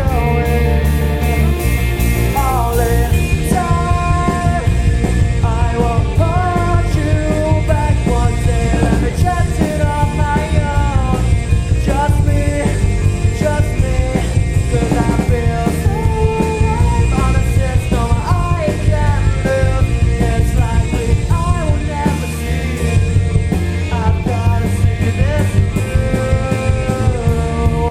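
Rock band playing: drums, bass and electric guitars, with a melodic line over the top, loud and full, starting abruptly.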